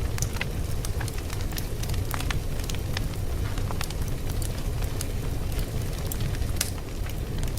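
Fire crackling: a steady low rumble of burning with scattered sharp pops and crackles, several a second.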